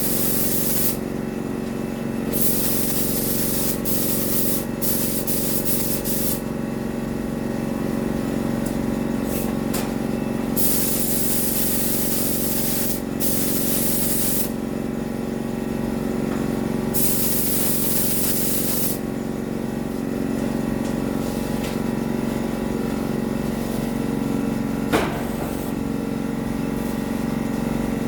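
Spray gun hissing in repeated passes of a few seconds each, switching on and off as paint is laid down on a Jeep's body, over a steady motor hum. A single sharp click sounds near the end.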